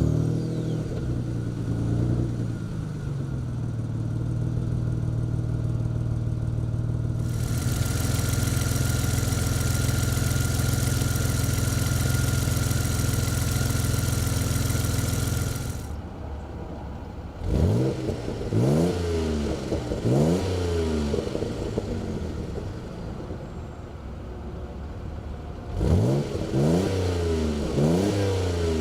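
1992 Dodge Stealth R/T's 3.0-liter DOHC 24-valve twin-turbo V6, just started, settling from a fast idle to a steady idle over the first few seconds. About halfway through it is blipped three times in quick succession, and again in a few short revs near the end, each rev climbing and dropping back to idle.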